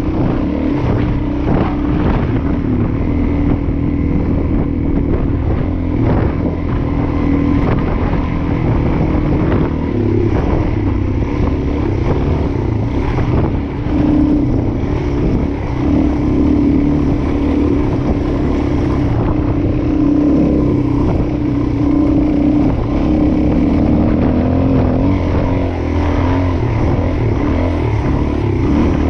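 Suzuki DR-Z400S single-cylinder four-stroke engine running while ridden off-road, its pitch rising and falling with the throttle, over a heavy low rumble and occasional knocks.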